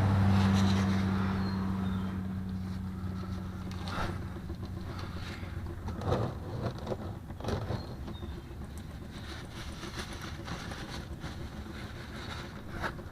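Engine oil draining from the sump of a 1.6 L turbo Gamma engine into a drain pan. A low hum and rushing noise are loudest at the start and fade over the first few seconds as the flow tapers. A few sharp metallic knocks come later.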